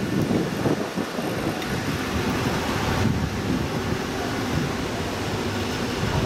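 VR Pendolino (Sm3) electric train moving slowly past the platform: a steady rumble of its wheels and running gear.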